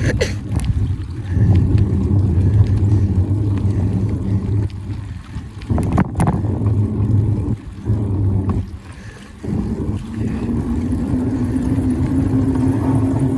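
Low rumble of wind buffeting the microphone and tyre noise while riding a bicycle, easing off briefly a few times, with a few clicks.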